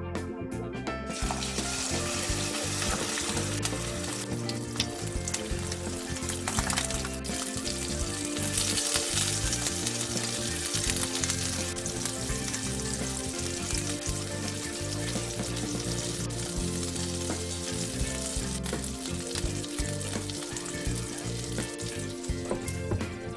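Rice okonomiyaki mixture frying in a hot oiled pan: a steady sizzle that starts about a second in, over background music.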